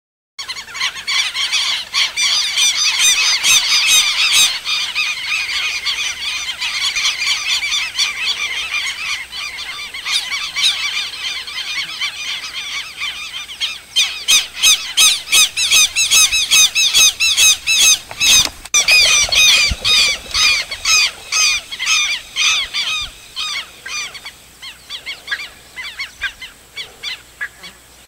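Birds calling: a dense run of harsh, high-pitched repeated calls from several birds at once, settling in the second half into a steadier series of about three calls a second that fades toward the end.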